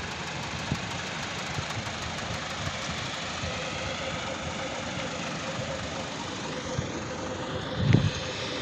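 A small motor running steadily, with a steady whine that comes in about halfway and a heavy thump near the end.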